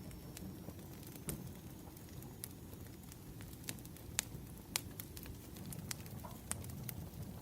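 Wood fire burning: irregular sharp crackles and pops over a low, steady rumble of the flames.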